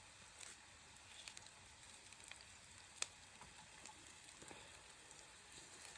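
Sliced onion frying in oil in a frying pan on a portable stove: a faint, steady sizzle with scattered small crackles and one sharper pop about three seconds in.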